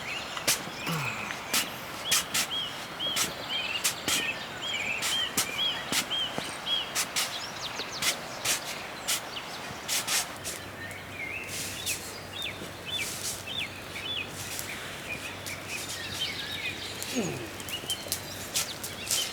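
A bird calling outdoors in a run of short, arched chirps, about two a second, that pauses and starts again. Sharp knocks or clicks come irregularly throughout and are the loudest sounds.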